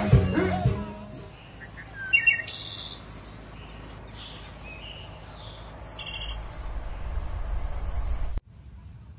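Birds chirping in short high calls over a steady outdoor background hum, after music fades out in the first second; the sound cuts off abruptly near the end.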